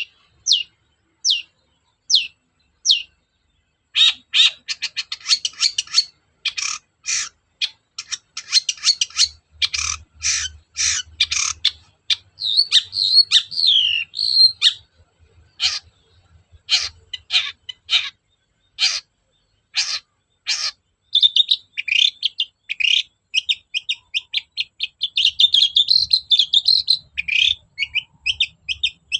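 Long-tailed shrike singing: a few single sharp notes about twice a second at the start, then fast runs of harsh chattering and short warbled phrases, ending in a dense, rapid trill of high notes.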